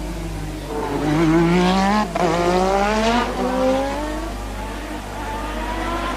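A 1988 Formula One car's engine accelerating past, its pitch climbing through the gears with sharp upshifts about two and three seconds in, then fading away.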